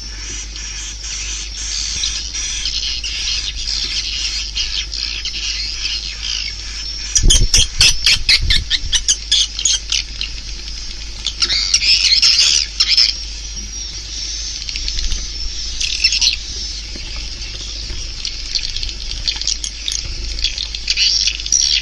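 Swiftlets twittering: continuous high chirping, with a run of rapid sharp clicks at about 7 to 9 seconds and denser bursts of chirps around 12 and 16 seconds. A steady low hum runs underneath. This is a swiftlet call track of the kind played to lure swiftlets into a nesting house.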